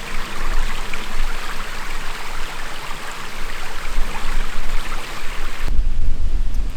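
Running water, like a stream, with an even rushing sound. Near the end it cuts to a heavy low rumble.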